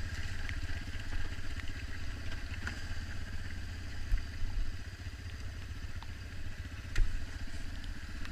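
Dirt bike engine running steadily, with scattered light clicks and one sharp knock about seven seconds in.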